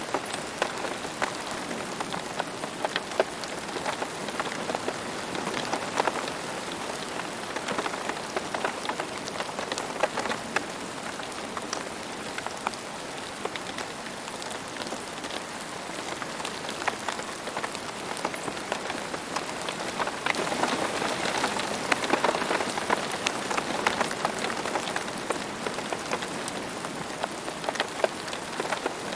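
Steady rain falling, with a constant hiss and many close drops pattering and ticking on a hard surface, a little heavier about two-thirds of the way through.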